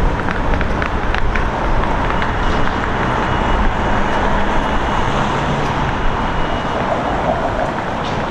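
Steady city street traffic noise, cars passing. A few sharp light clicks in the first second or so, and a faint thin high tone through the middle.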